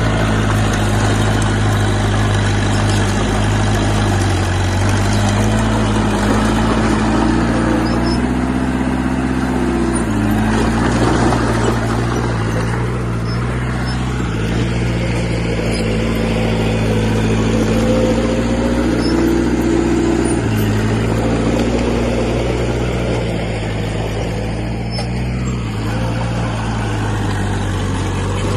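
Heavy construction machine's diesel engine running continuously under load, its pitch stepping up and dropping back a few times as it works.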